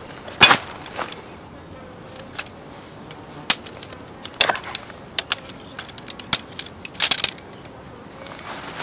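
Metal camp cookware and utensils clinking and knocking now and then. There are single sharp clicks about a second apart and a quick cluster of clinks about seven seconds in.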